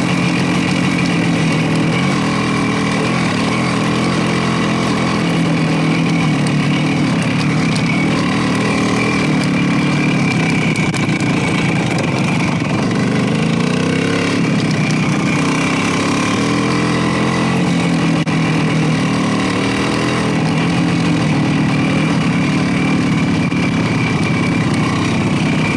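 Motorcycle engine running steadily, its pitch drifting slightly up and down with the throttle.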